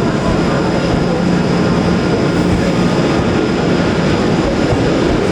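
Avanti West Coast Pendolino electric train running: a loud, steady rumble and rushing noise with a low hum.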